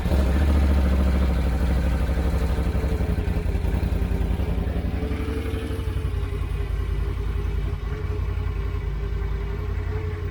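2021 Can-Am Outlander 850 XMR ATV's Rotax V-twin idling with the factory exhaust and muffler on, seconds after a cold start. It is a steady, low, pulsing idle, a little louder just after firing before settling, and its sound through the stock muffler is pretty tame.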